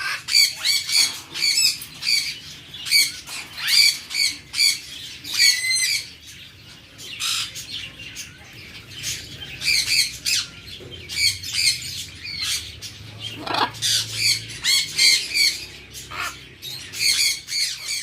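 Baby budgerigar chicks giving rapid, repeated squawking begging calls in bursts with short pauses, the food-begging of nestlings being hand-fed.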